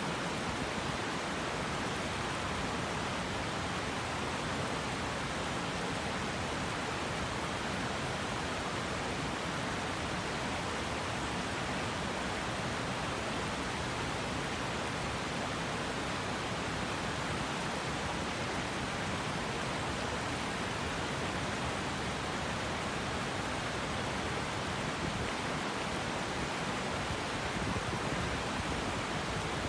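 A mountain river rushing over stones: a steady, unbroken wash of flowing water.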